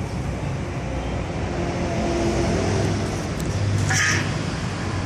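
Steady background rumble of road traffic, with a short hiss about four seconds in.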